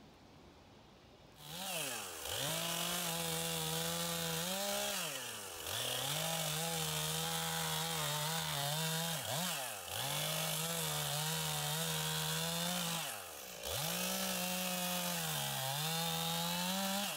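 Stihl two-stroke chainsaw cutting through a log at high revs. It comes in about a second and a half in, and three times the throttle is let off so the engine sags briefly and then revs back up into the cut.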